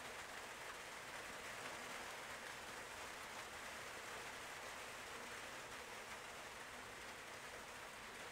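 Steady, faint hiss of background noise with no distinct events.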